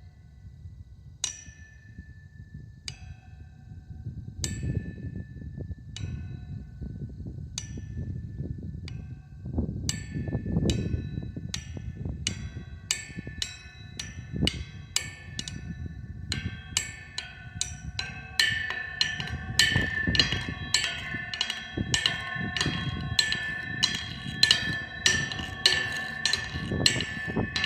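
A tuned drum struck note by note, each stroke ringing on with a clear pitch. Single notes come about every second and a half at first, then quicken into a dense run of overlapping ringing notes in the second half, over a low rumbling noise.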